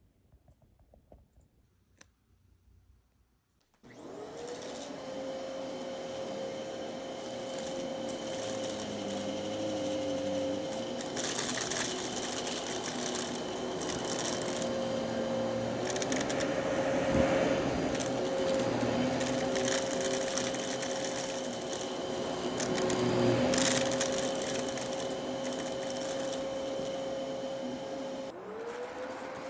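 Dyson DC33 upright vacuum cleaner switched on about four seconds in, its motor spinning up to a steady whine under a rushing airflow that swells and fades as it runs. Near the end the whine drops and spins back up. Before it starts there are only a few faint clicks.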